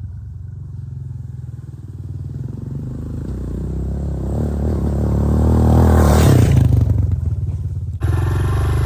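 Honda CRF125 dirt bike's single-cylinder four-stroke engine running as the bike is ridden, getting louder over the first six seconds. There is a hiss about six seconds in, and the sound changes abruptly at about eight seconds.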